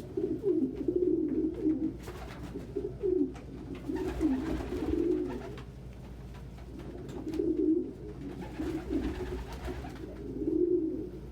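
Domestic pigeons cooing in repeated low, warbling phrases, with a short lull a little past the middle.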